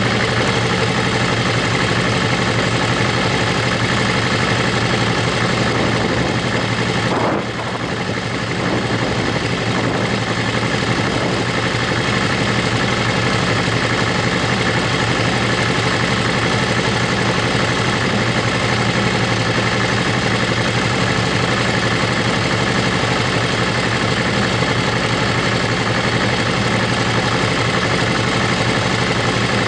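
Motorcycle engine running steadily on the move, under a constant rush of wind and road noise. The sound drops briefly about seven seconds in, then picks up again.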